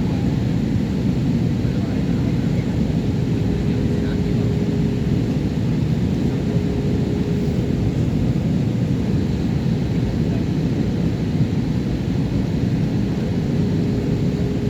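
Jet airliner cabin noise in flight: the steady roar of engines and airflow, mostly a low rumble, with a faint steady hum above it.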